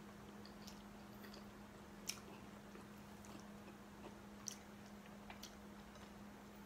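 Faint chewing of a mouthful of rice and stir-fried greens, with a few short soft clicks, over a steady low hum.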